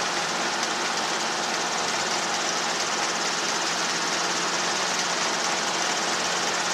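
Steady drone of a helicopter in flight, heard from the cockpit: an even engine and rotor hum under a constant hiss, unchanging throughout.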